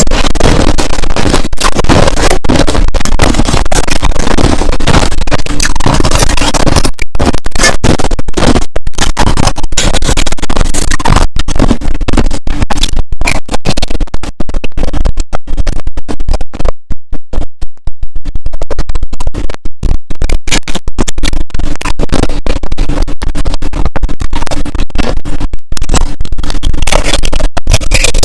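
Crushed ice being chewed right at the microphone: very loud, dense crunching and crackling, thinning briefly about two-thirds of the way through.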